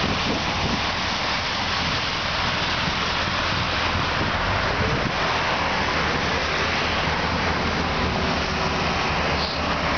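Steady outdoor noise of heavy trucks' diesel engines running, mixed with a constant hiss of rain and wind.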